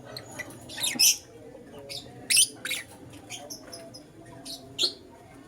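Lutino lovebirds chirping: a string of short, sharp, high-pitched chirps and squawks, the loudest about a second in and again near the middle.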